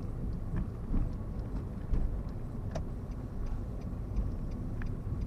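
Car cabin noise from inside a moving or slowing car: a steady low engine and road rumble with faint, fairly regular small ticks.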